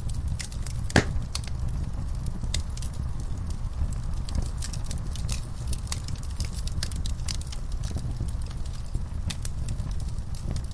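Wood fire burning in a fireplace: irregular crackles and sharp snapping pops of burning logs over a steady low rumble of the flames, with one loud pop about a second in.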